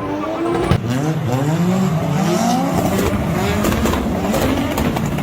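Drift car's engine revving up and down repeatedly over tyre squeal, with a sharp crack under a second in.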